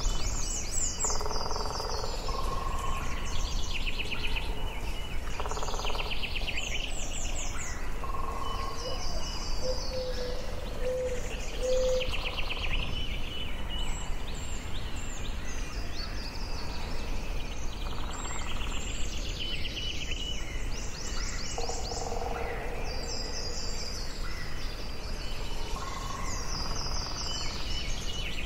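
Forest ambience: several songbirds singing and calling over one another, with quick high trills and chirps repeating every few seconds, over a steady low rumble.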